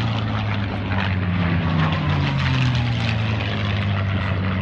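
Piston-engined propeller airplane flying past at an airshow, its engine and propeller droning loudly with the pitch slowly falling as it goes by.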